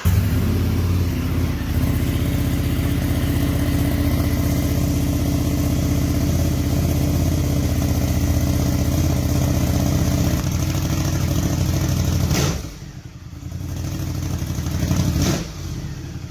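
Ducati Multistrada 1200's L-twin engine running through an Arrow Indy Race slip-on exhaust, a steady, deep exhaust note. About twelve seconds in the note drops off, then picks up again.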